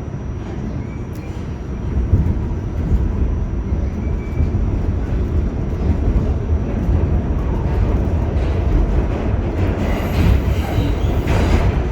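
R46 subway train running between stations: a steady rumble of wheels on the rails that grows louder about two seconds in.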